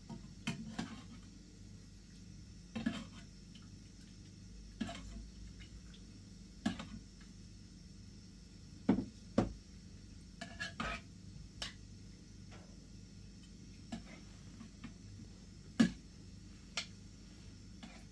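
Irregular light knocks and clinks of objects being handled, about a dozen, the sharpest a little before the end.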